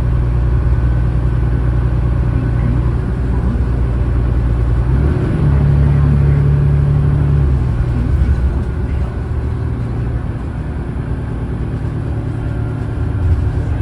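Cummins ISLe diesel engine of an Alexander Dennis Enviro500 bus running under load. Its note steps up about five seconds in, holds for about two seconds, then drops back.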